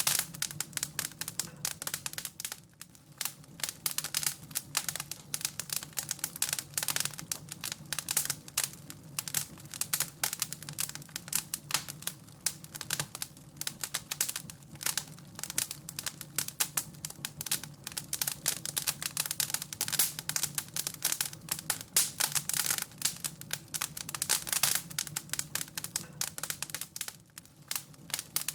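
Wood fire crackling in a fireplace: a dense, irregular run of sharp snaps and pops over a low steady hum.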